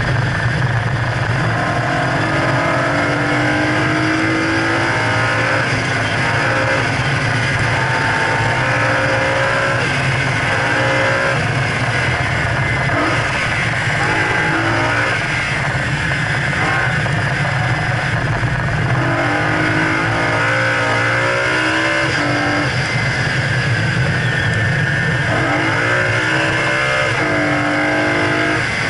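2011 BMW E92 M3's V8 engine driven hard on track, its pitch climbing repeatedly as it accelerates and breaking off at each shift or lift. A steady low drone of engine and road noise runs underneath.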